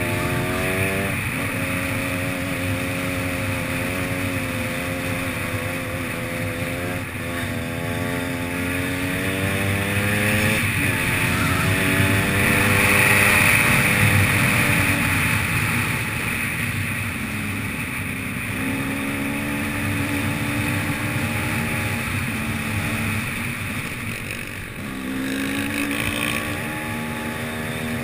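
Enduro motorcycle engine running while being ridden, its pitch climbing and then dropping back several times as the revs rise and fall. A rush of wind on the microphone grows loudest around the middle.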